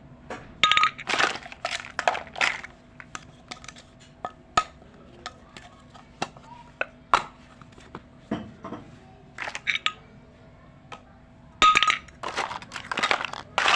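Small toy kitchen pieces clinking and tapping as they are handled and set down, busiest in two flurries, one near the start and one near the end, with a brief ring after a couple of the knocks.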